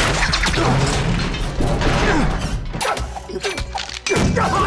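Kung fu fight-scene sound effects: a rapid string of crashing, smashing impacts and blows, with a music score underneath.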